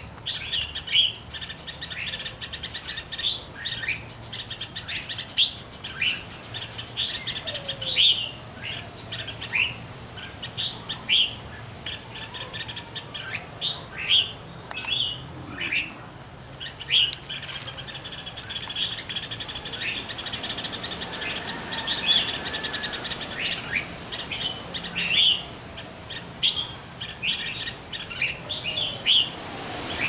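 Bird calls: short, sharp chirps, about one every second, over a steady high buzz.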